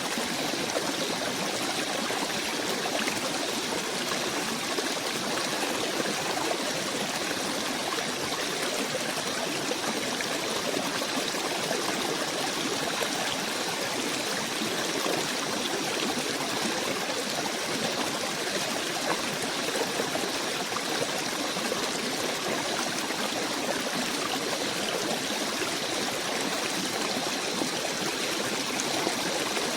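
A stream of running water flowing steadily, an even rushing trickle with no change.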